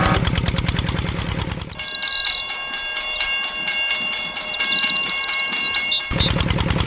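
Train sounds: a held chord of several horn-like tones over a fast, regular clatter, from about two seconds in until about six seconds in. Before and after it there is a low, rapid, even pulsing.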